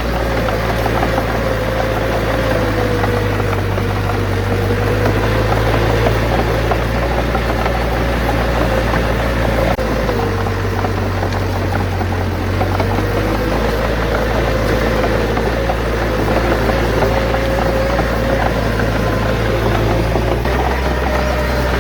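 Bulldozer's diesel engine running steadily under load, with a whine that wavers slightly in pitch and dips briefly about ten seconds in.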